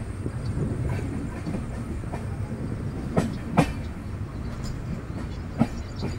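Gorakhpur Superfast Express passenger train running on the track: a steady low rumble of wheels on rail. Sharp clacks of the wheels over rail joints come as a pair about three seconds in and once more near the end.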